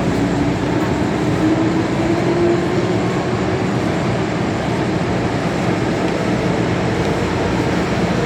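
MTR M-Train metro car running through an underground tunnel, heard from inside the car: steady rail and running noise, with a whine that rises in pitch over the first couple of seconds.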